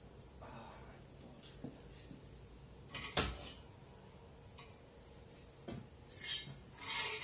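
Small metal parts and tools clinking and rattling, as in hands sorting through hardware, with one sharp metal clank about three seconds in and a burst of rattling near the end.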